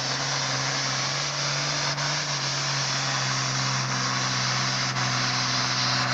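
Super farm pulling tractor's diesel engine running hard at a steady high pitch, with a dense rush of noise over it.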